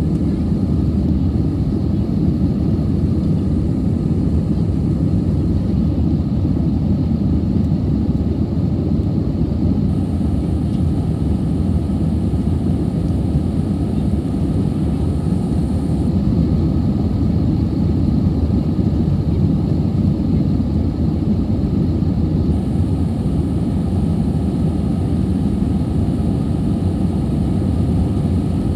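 Airbus A320 jet engines and airflow heard from inside the passenger cabin: a steady, even low noise with no change in level.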